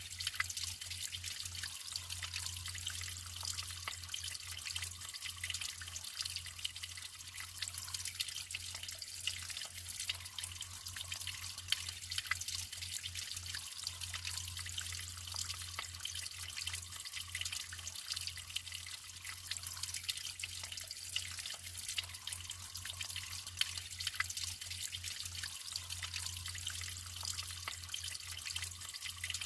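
Natural water flowing and trickling steadily, with a constant patter of small drips and splashes.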